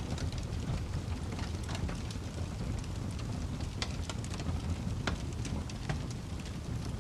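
Burning wood crackling in a fireplace: irregular sharp pops and snaps over a steady low rumble, with two louder pops about four and five seconds in.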